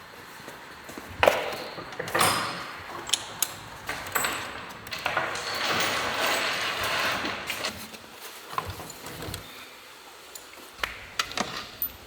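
Tools and metal engine parts being handled: irregular clinks, clicks and knocks, with a longer stretch of scraping and rustling in the middle.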